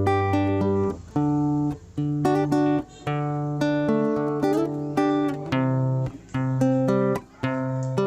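Guitar music: plucked notes ringing cleanly in short melodic phrases, with brief breaks about once a second.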